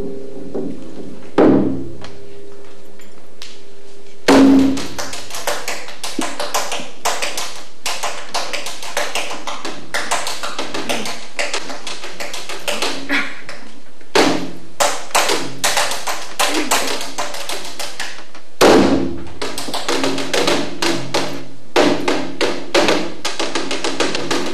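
Live percussion accompanying a dance: fast, dense flurries of taps, over a faint sustained tone at the start. The playing breaks off twice and starts again each time with a louder stroke.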